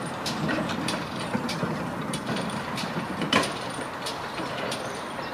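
Steady vehicle-like background noise with scattered short clicks and knocks, the loudest knock about three and a half seconds in.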